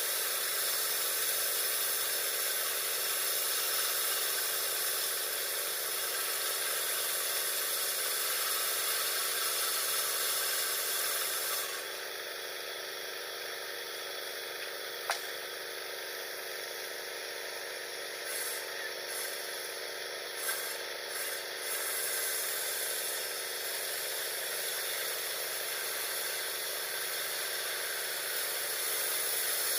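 Mini sawmill saw running and ripping a 2x6 plank into 2x2 lumber, a steady noise. About twelve seconds in it eases for some ten seconds, with a sharp click and a few short knocks, then comes back to full strength near the end.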